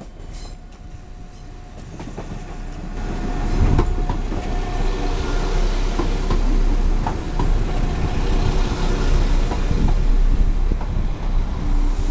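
A Class 172 Turbostar diesel multiple unit runs along the platform and past close by. Its running noise grows louder over the first four seconds and then holds, with scattered wheel clicks on the rails.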